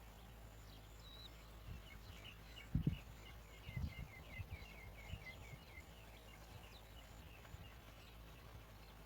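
Bar-winged prinias at the nest: a rapid run of short, high chirps, about six a second, lasting some three seconds. A few dull low thumps come around three and four seconds in.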